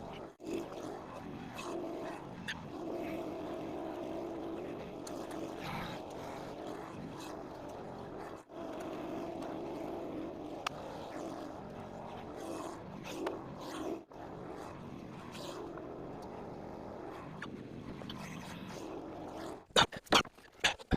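Small gas engine running steadily after its carburettor has been cleaned, with a run of sharp knocks near the end.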